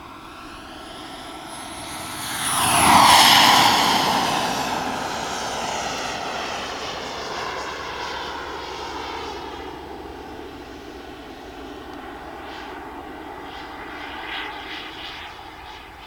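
Turbine-powered radio-controlled model jet, a Jet-Italia Kayman 190, flying past: a whistling jet whine swells to its loudest about three seconds in, drops in pitch as it passes, then slowly fades, with a smaller swell near the end as it comes round again.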